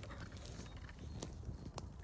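A few short, sharp clicks over a low steady rumble.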